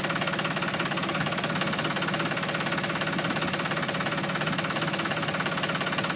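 A small engine idling steadily, with a rapid, even chugging beat.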